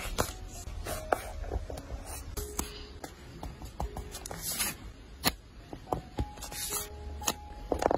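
Paper and stickers being handled on a journal page: irregular light taps and clicks, with two short rustling, peeling sounds about halfway through and near the end. Soft background music with held notes runs underneath.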